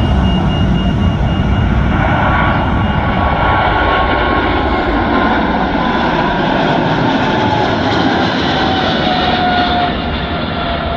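Boeing 777-300ER's GE90 jet engines at takeoff thrust: a loud, steady roar with a whine that slides steadily down in pitch as the airliner goes past, getting a little quieter near the end.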